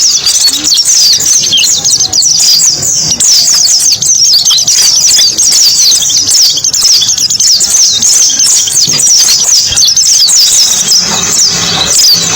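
White-eyes (pleci) twittering: a dense, unbroken stream of very high, thin, quick falling chirps.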